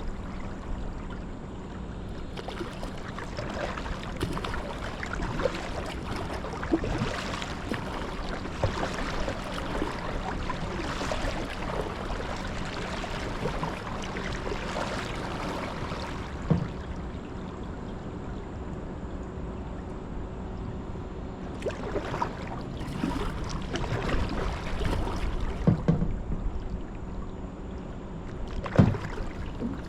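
Water splashing and dripping around a kayak as it is paddled, in an uneven run of small splashes, with a few louder knocks in the second half.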